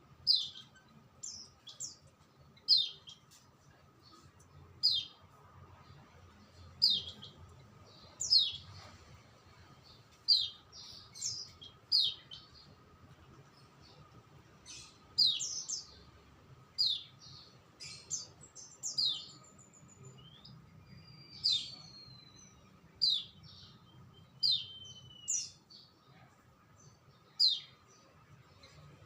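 A songbird chirping: short, sharp, downward-sweeping calls, about one every second or two, with a few thin gliding whistles about two-thirds of the way through.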